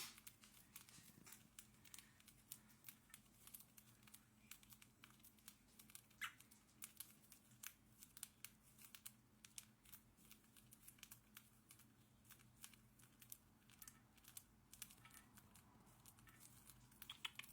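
Cockatiels cracking and hulling seeds: faint, irregular small clicks and crackles, over a faint steady low hum.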